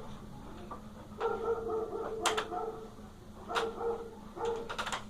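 A pet dog whining in several drawn-out, steady-pitched whines during tug play, the longest lasting about a second, with a few sharp clicks between them.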